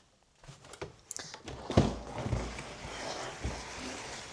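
A jump box being pulled out and moved across the floor: scraping and shuffling, with a few knocks and a low thud about two seconds in.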